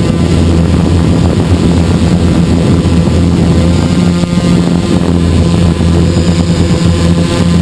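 Hexacopter's six electric motors and propellers running in flight, a steady loud hum heard from the camera mounted on the craft.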